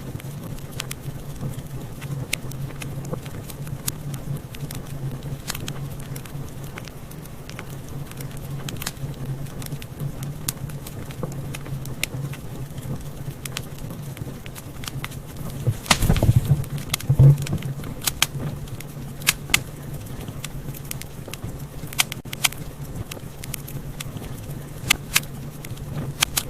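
Wood fire crackling in a fireplace: scattered sharp pops and snaps over a low, steady rumble of the flames, with a spell of louder, denser crackling a little past halfway.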